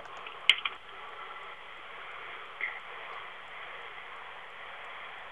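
Steady hiss of a low-quality recording with no speech, broken by a sharp click and a smaller one about half a second in and a faint brief sound near three seconds.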